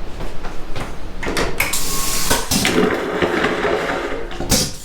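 Train toilet flushing: a loud rush of water and air starting about a second in, with a few sharp clicks.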